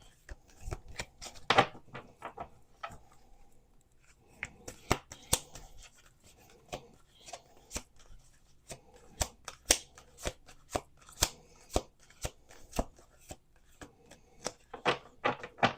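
A deck of oracle cards being shuffled by hand: an irregular run of soft clicks and slaps as the cards are riffled and squared.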